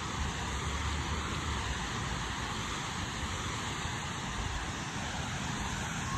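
Waterfall's falling water rushing as a steady, even noise.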